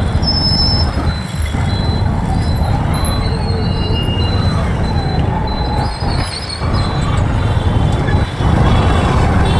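Motorcycle riding through city traffic: a loud, steady low rumble of engine and road noise, dipping briefly twice, with traffic sounds around it.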